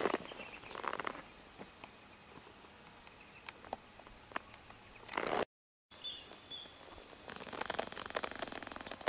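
Faint bush ambience: scattered rustles and clicks, then, after a brief cut to silence about halfway, birds chirping with short high calls over a light rustling.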